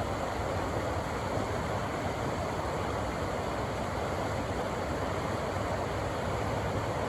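River water rushing over rocks in a steady, unbroken roar.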